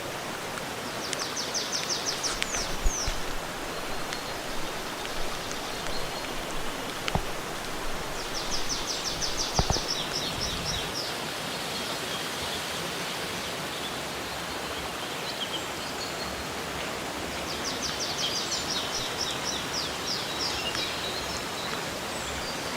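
Rainforest ambience: a steady wash of falling and running water, broken three times, about eight seconds apart, by a high, rapid pulsing trill from a bird or insect. A few sharp clicks come near the first and second trills.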